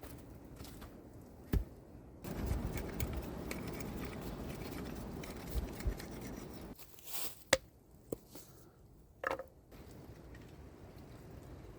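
Scraping and rustling handwork for a few seconds, followed by several separate sharp knocks.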